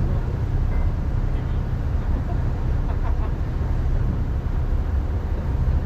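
Steady low drone of a passenger ferry's engines under way, with an even rushing haze over it.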